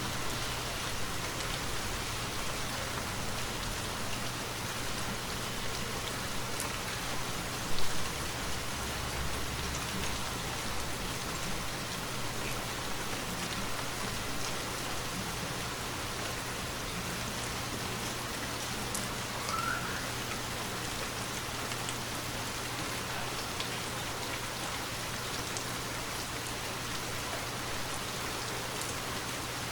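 Steady rainfall pattering on surfaces in a forest, an even wash of drops. About eight seconds in, one brief, louder hit stands out above the rain.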